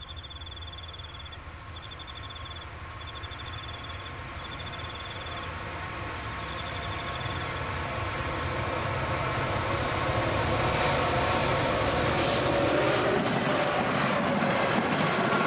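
A freight train hauled by four diesel locomotives approaches, its engine rumble and droning growing steadily louder over about ten seconds. From about twelve seconds in, sharp wheel clicks on the rails join it as the locomotives pass. A high, trilling chirp repeats several times in the first half.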